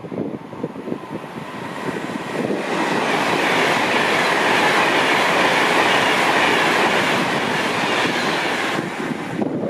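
A train passing at speed on the main line: wheel and rail noise builds over the first couple of seconds, holds loud, then drops away sharply near the end. Wind buffets the microphone at the start and end.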